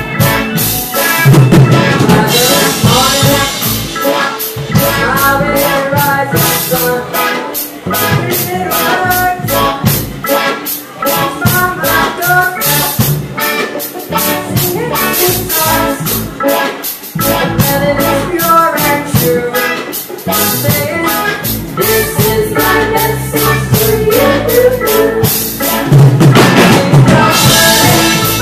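A live band plays reggae, with a drum kit keeping a steady beat under melodic guitar and keyboard lines. Cymbal crashes ring out just after the start and again near the end.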